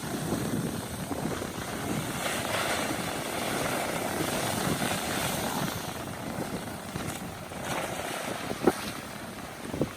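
Ocean waves breaking against volcanic rock: a continuous rushing wash of surf that swells over the first few seconds and then eases. Near the end there are two brief sharp thumps.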